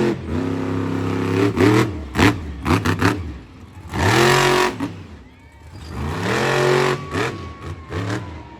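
Monster truck engine revving hard in bursts during a freestyle run, its pitch climbing and falling again and again, with a few sharp bangs in between.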